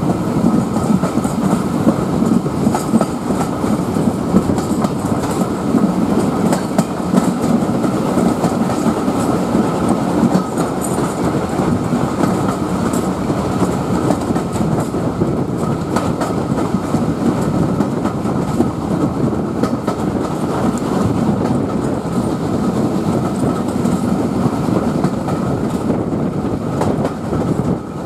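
Steam-hauled passenger train running along the line, heard from one of its carriages: the steady running noise of the wheels on the rails.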